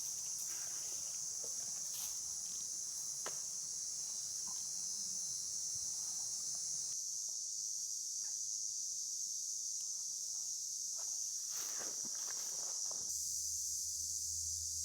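Steady high-pitched chorus of insects singing, with a few faint clicks and rustles now and then.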